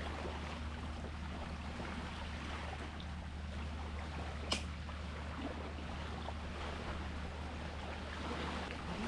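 Sea water washing and lapping, with a steady low hum underneath and one brief sharp hiss about halfway through.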